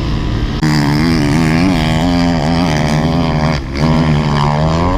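Dirt bike engine being ridden, its revs rising and falling constantly under the throttle. It jumps louder just over half a second in, and the revs drop briefly about three and a half seconds in.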